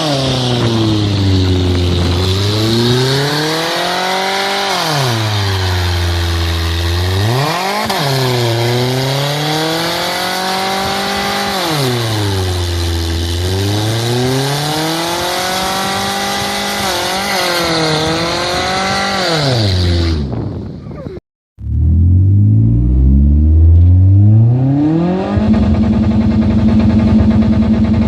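2003 Mazda Protegé's 2.0-litre four-cylinder engine revved hard, its pitch swinging up and down in four long cycles. Just after two-thirds of the way through the sound cuts out for a moment. The engine then climbs again and holds at a steady high pitch at the top of its range, on the rev limiter.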